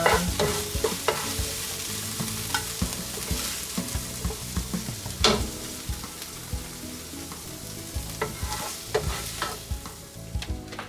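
Onions and green bell peppers sizzling in butter in a frying pan, with a utensil stirring and clicking against the pan now and then, one louder click about halfway. The sizzle fades near the end.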